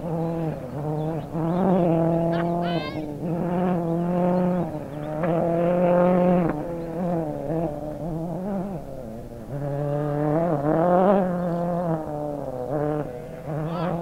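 Ford rally car engine under hard acceleration, revving up and dropping back at each gear change, about five times.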